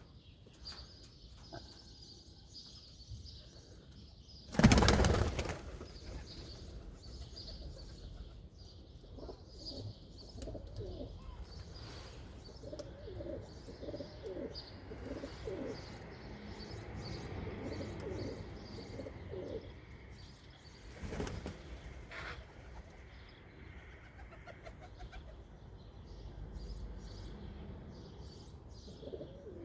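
Feral pigeons cooing in a run of low repeated notes, with small birds chirping high above. A loud burst of wing flapping comes about five seconds in, and a shorter one a little past twenty seconds.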